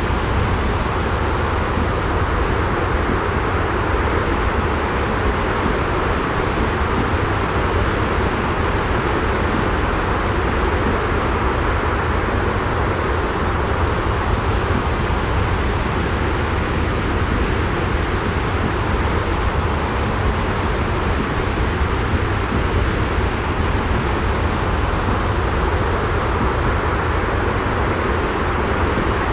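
Steady, unchanging rushing white noise with a strong low rumble, as from a looped sleep-sound track.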